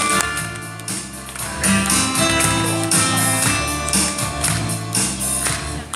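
Instrumental break in a song, with no singing: strummed guitar over a bass line and a steady beat.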